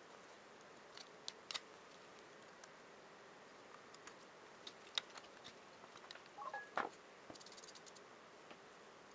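Sparse small clicks and taps of hand-work on a bench, a few single ticks and then a short busier cluster about two-thirds of the way in, over a faint steady hiss.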